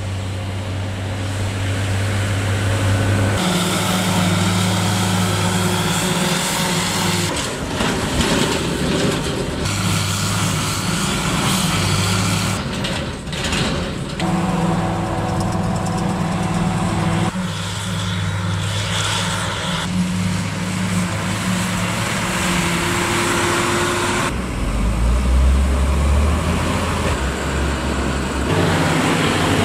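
Silage-harvest machinery engines running: tractors and a self-propelled forage harvester at work. The steady engine hum changes suddenly every few seconds as one short clip of machinery gives way to the next.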